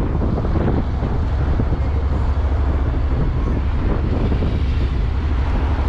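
Honda NC750X motorcycle riding at speed: wind buffeting on the microphone over a steady low rumble of engine and road.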